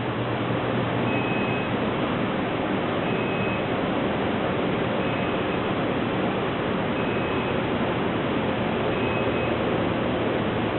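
A power conditioner with battery backup beeping a short, high single tone about every two seconds, its alarm on losing mains power after the main power cord was unplugged. Under it, a steady rush of machine noise.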